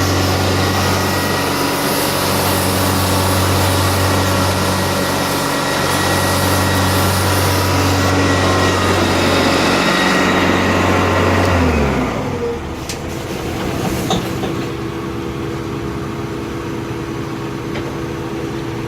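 Prochem Performer truck-mount carpet cleaning unit running on its 24 hp Onan engine, a loud steady hum. About twelve seconds in it shuts off and winds down, its pitch falling away. A quieter steady hum and a few faint clicks remain afterwards.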